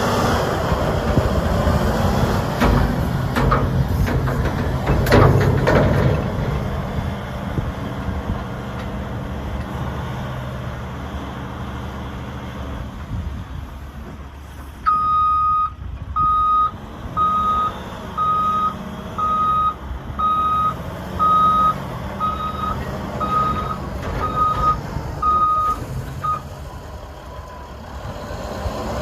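2015 Volvo A40G articulated dump truck's diesel engine running, with a few loud knocks in the first six seconds. About halfway through, the reversing alarm beeps about once a second, eleven times, then stops while the engine keeps running.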